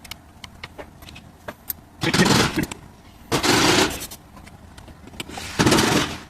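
Three short bursts of an impact wrench working bolts loose, each under a second long, with light clicks of tools in between.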